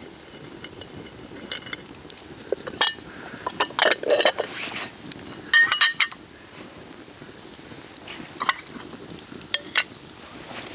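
Metal cookware and utensils clinking and knocking together: a run of sharp, irregular clinks with brief ringing, busiest in the first half, then a few more near the end.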